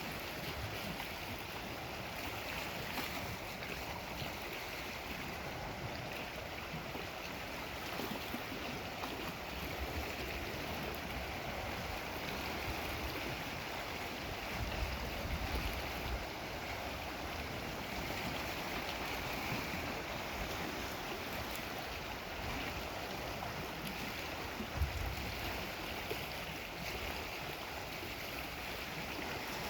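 Steady wash of Lake Superior waves on the shore, with two brief low rumbles, one about halfway through and one near the end.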